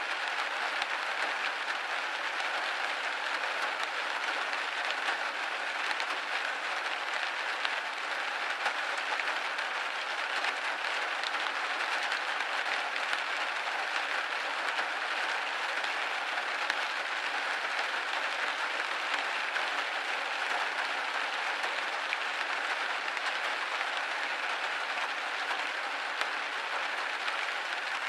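Steady rain pattering on a window pane: a dense, even spatter of drops with no change in intensity.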